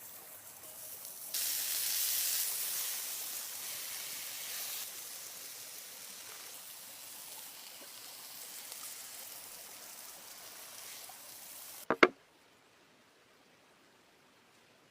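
Food sizzling in a hot pan: a hiss that swells sharply about a second and a half in, then slowly dies down. Two sharp knocks come near the end, after which the sound cuts away to near silence.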